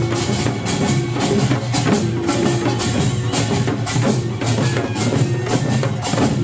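Korean pungmul farmers' band playing in full: clanging kkwaenggwari small gongs, janggu hourglass drums, buk barrel drums and a jing gong, beating out a fast, dense rhythm.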